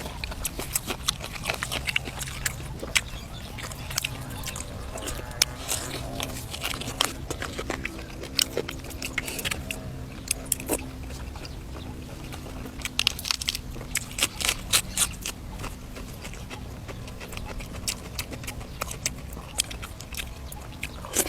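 A man chewing and biting braised duck close to the microphone: wet chewing broken by many short crunching clicks, with a dense run of them about two-thirds of the way through.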